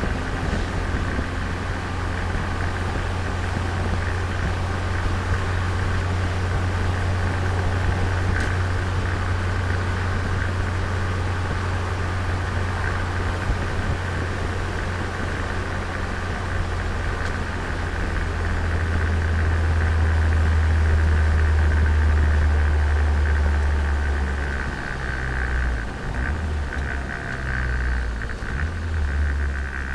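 Turbocharged Nissan Micra engine, being broken in, running steadily as the car is driven: a low drone that grows louder about twenty seconds in, then eases off and turns uneven in the last few seconds.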